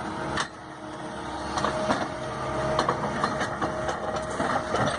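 Heavy machine engine running, with scattered metallic clanks and knocks over it.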